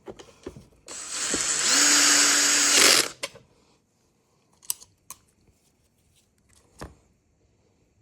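A cordless power tool's motor runs in one burst of about two seconds, then cuts off, followed by a few light clicks and knocks of tool handling.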